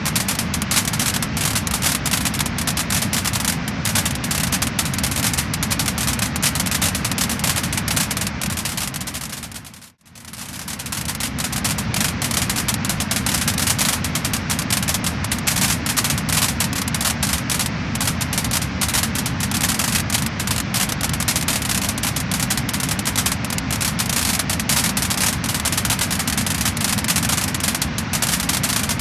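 Wood-burning fire crackling and popping densely over a steady rushing hiss. About ten seconds in it fades briefly to near silence and straight back up.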